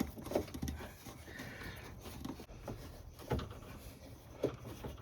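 Hands fitting a car radiator's bottom mount back into its hole: scattered light knocks, clicks and rubbing of parts. The sharpest knocks come about a third of a second in and again past three and four seconds.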